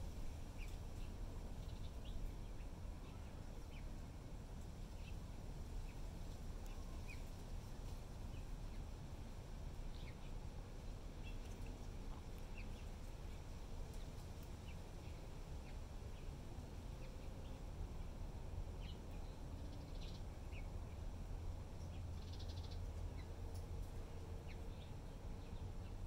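Outdoor garden ambience: a steady low rumble with many short, scattered bird chirps over it.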